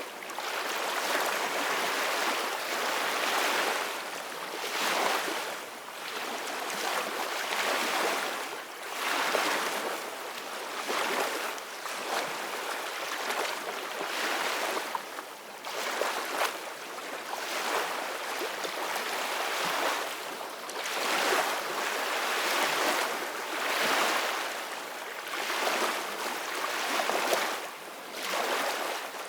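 Ocean waves breaking and washing on a beach, a continuous hiss of surf that swells and ebbs every few seconds.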